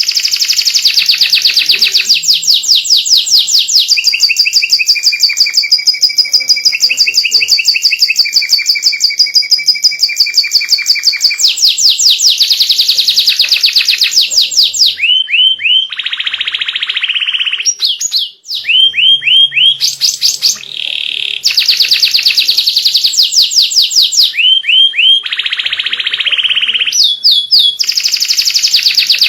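White canary in full song: long runs of fast repeated trills and rolls, changing to a new phrase every few seconds, with a short lower, buzzier roll about halfway through.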